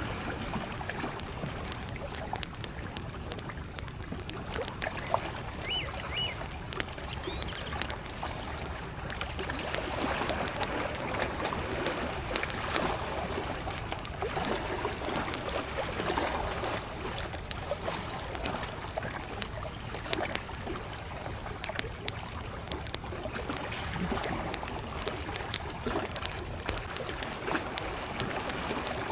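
Wood campfire crackling with many sharp pops throughout, over small lake waves lapping steadily. A bird gives two short high notes about six seconds in.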